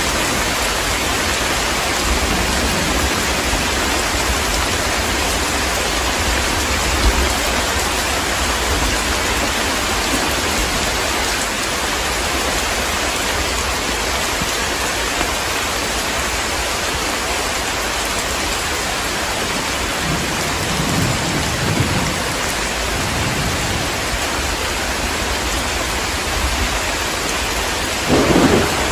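Heavy rain falling steadily in a thunderstorm, with thunder rumbling low about two-thirds of the way through and a louder thunder rumble near the end.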